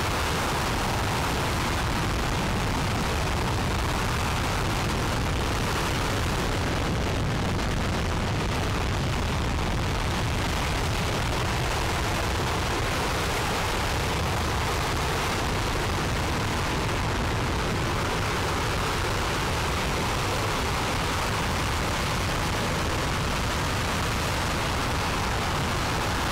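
RS-25 liquid-hydrogen/liquid-oxygen rocket engine in a sustained static test firing: a steady, even rushing noise heavy in the low end, holding at one level throughout.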